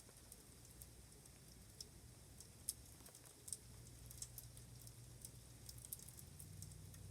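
Freezing rain: faint, irregular ticking of ice pellets striking outside, over a low steady hum that strengthens about halfway through and again near the end.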